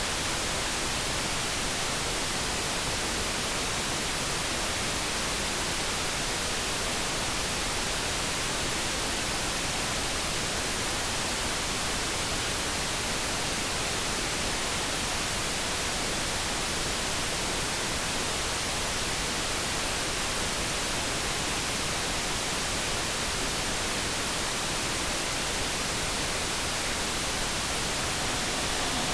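Steady, unchanging synthetic noise, a light brown noise bed like a soft even hiss.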